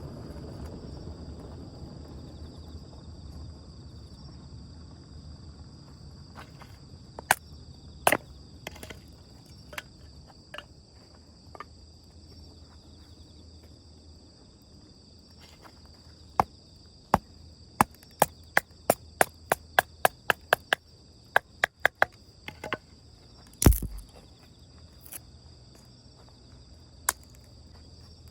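Wood burning in a small campfire stand, crackling with sharp pops that come thick and fast about two-thirds of the way in, and one loud pop shortly after. Insects trill steadily behind it.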